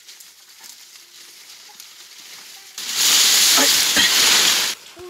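Food sizzling in hot oil in a cooking pan. A loud sizzle starts nearly three seconds in, lasts about two seconds and cuts off suddenly.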